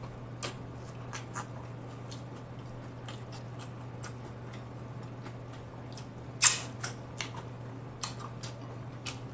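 Close-up chewing of crunchy hard-shell tacos: scattered crunches and wet mouth clicks, the loudest sharp crunch about six and a half seconds in, over a steady low hum.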